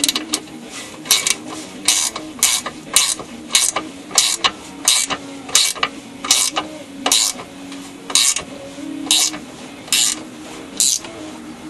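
Hand ratchet wrench swung back and forth to run a bolt in, giving a short burst of ratcheting clicks on each return stroke, about one and a half strokes a second.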